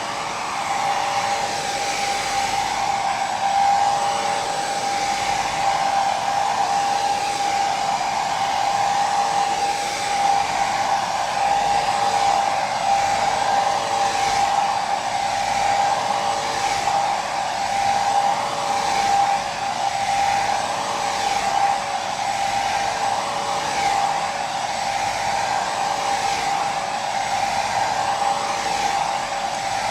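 Hair dryer running steadily: a continuous airy rush with a steady motor whine, swelling gently and evenly every second or two.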